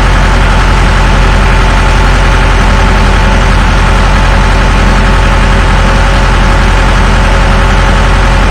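Truck engine idling steadily with an even, low rumble.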